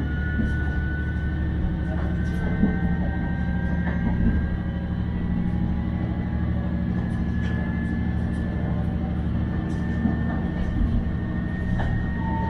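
Steady low rumble of a train running, heard from inside the passenger car, with a few faint scattered clicks.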